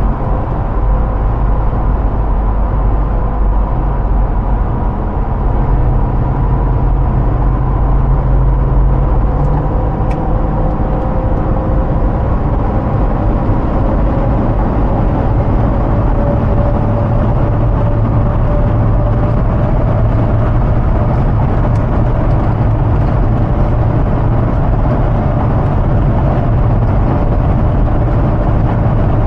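Hummer H2's 6.0 L V8 running steadily at speed, a constant low drone mixed with dense road and wind noise. A faint higher tone climbs slightly about halfway through.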